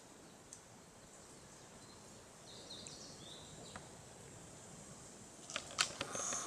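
Quiet woodland ambience with a few short, faint bird chirps about halfway through, then a run of crackling clicks and rustles near the end.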